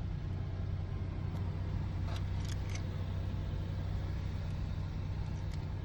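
2024 Vauxhall Astra running steadily at idle while its new spare key is tested, with a few light clicks about two seconds in.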